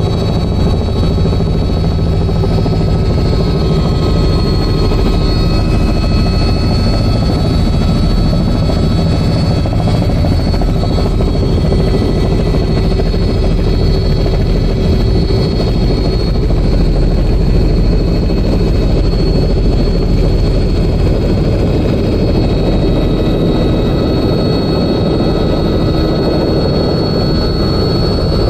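Helicopter running steadily, a dense low rumble with a thin, steady high whine over it.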